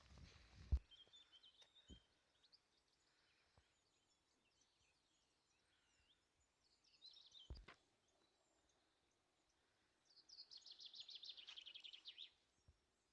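Small songbirds calling faintly, then a rapid, fast-repeating trilled song phrase of about two seconds near the end. A few low knocks of handling or footsteps are heard near the start and about halfway through.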